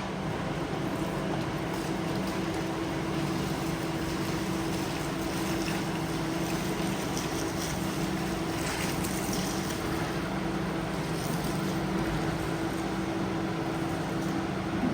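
Motor of a carpet-cleaning machine running steadily, a constant hum under a hiss.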